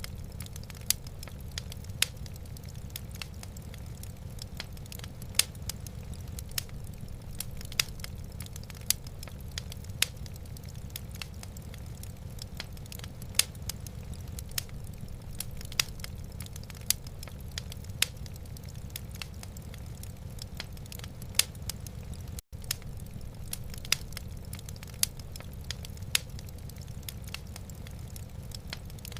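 Wood fire in a fireplace crackling, with irregular sharp pops and snaps over a steady low rumble. The sound cuts out for an instant about two-thirds of the way through.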